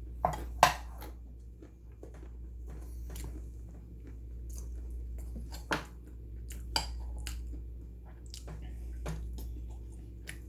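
A person chewing almonds, with scattered sharp crunches. The loudest two come just after the start and a few more around the middle, over a steady low hum.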